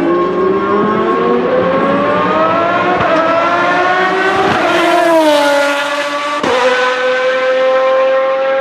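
Lamborghini Murciélago R-SV GT1 race car's V12 accelerating hard, its note climbing steadily, then falling away as it passes close by. About two-thirds of the way through the pitch drops suddenly at an upshift, and the engine pulls on.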